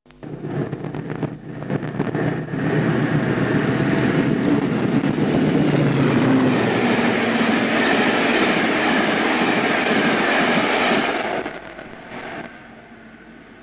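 British Rail mainline diesel locomotive passing, with engine and wheel noise building up over a couple of seconds, staying loud, then falling away sharply near the end to a faint hiss.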